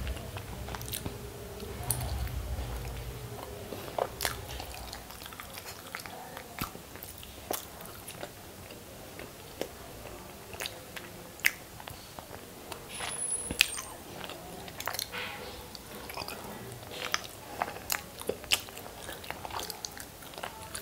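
Close-miked chewing and biting of masala-coated hard-boiled eggs, wet mouth sounds broken by many irregular sharp clicks.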